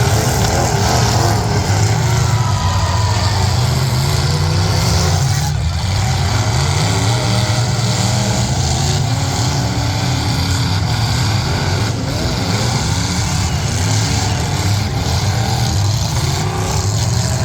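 Several demolition derby trucks' engines running loud and revving up and down, with a few knocks from hits.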